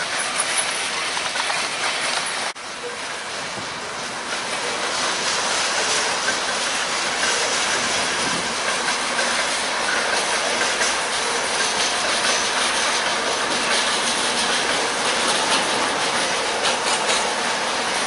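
Freight train cars rolling past, their wheels clicking steadily over the rail joints amid a dense rumble and hiss, with a brief dropout about two and a half seconds in.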